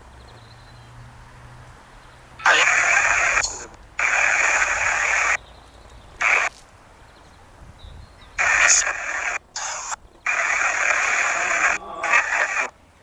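Spirit box (ghost box) putting out choppy bursts of radio static, seven of them, each cutting in and out abruptly, the longest nearly two seconds.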